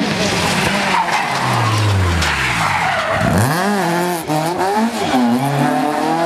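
Rally car engine dropping in revs, then revving hard and climbing again, the pitch rising and dipping several times as it accelerates through the gears, with tyres skidding on the road surface.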